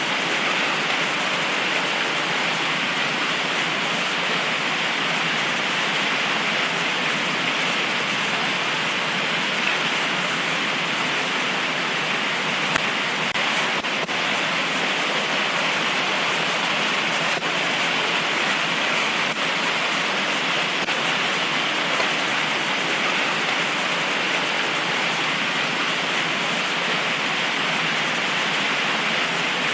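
Heavy tropical rain pouring down steadily, a dense even hiss with no let-up.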